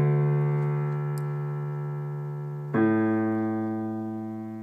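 Low left-hand piano notes alternating between A and D: a note rings on and fades, and the next bass note is struck about three seconds in and fades in turn.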